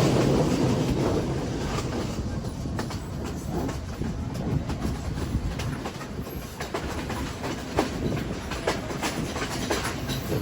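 Train running along the track: the wheels rumble on the rails with irregular clicks and clacks. The sound is loudest at first and eases off after about two seconds.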